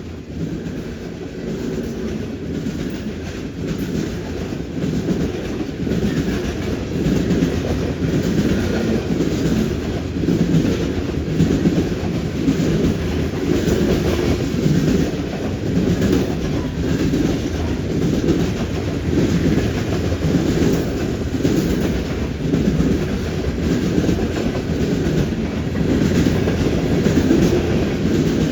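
Long freight train rolling past, its wheels clacking over rail joints and the junction switch with a steady rumble. The sound grows louder over the first several seconds, then holds.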